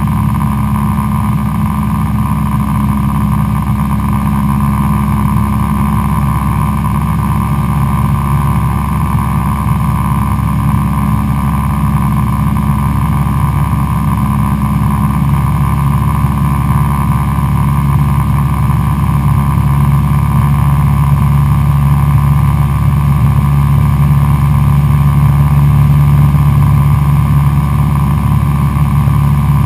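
Cessna 172SP Skyhawk's four-cylinder Lycoming engine and propeller in a steady, loud drone, growing slightly louder in the second half.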